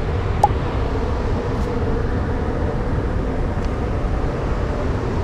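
Yamaha R1M sport bike's crossplane inline-four riding at a steady speed: an even engine drone buried in heavy low wind rumble on the microphone, with one brief click about half a second in.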